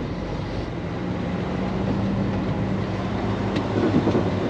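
Diesel engine of a day-cab semi truck running steadily, heard from inside the cab as a low, even hum.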